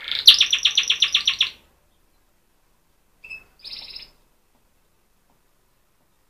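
Young orange canary practising its song: a fast run of about ten chirps over a second and a half, then after a pause a short single note and a brief trill.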